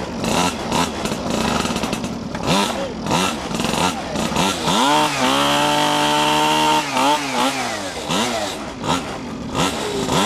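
Small two-stroke minibike engines revving, the pitch rising and falling again and again, with one engine held at steady high revs for about two seconds midway.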